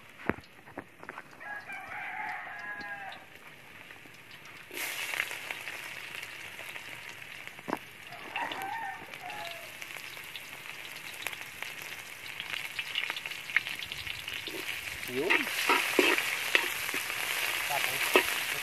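Sliced shallots and garlic sizzling in hot oil in a metal wok. The sizzle starts suddenly about five seconds in and grows louder near the end, where chilies are in and a spatula stirs with small clicks. A rooster crows about a second and a half in, and a similar call comes again about eight seconds in.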